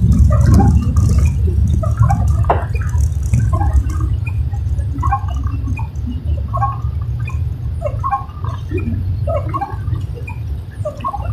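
Rain dripping and pattering irregularly on the car, over a steady low rumble of the car driving, heard from inside the cabin.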